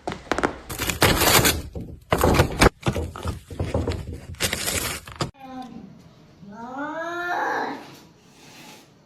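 A jumble of knocks, thuds and rustling for about five seconds, cut off suddenly. Then a domestic cat gives a long yowling meow that rises in pitch.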